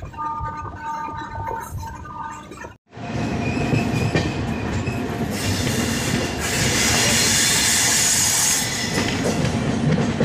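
Passenger train running on the rails, heard from an open door: a steady rumble and clatter of wheels on track, with a louder hiss through the middle. The sound drops out briefly about three seconds in.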